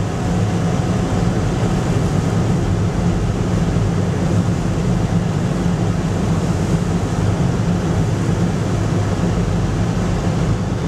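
Steady drone inside a car driving at about 50 km/h, mostly engine and tyre noise with the rush of strong wind from a sandstorm against the car.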